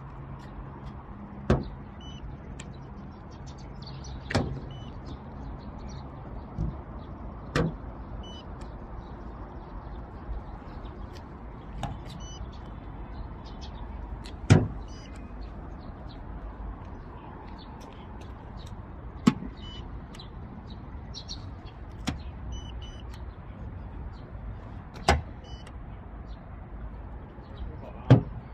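A series of about ten sharp clicks and knocks from a car being handled, spaced a few seconds apart, over a steady low hum.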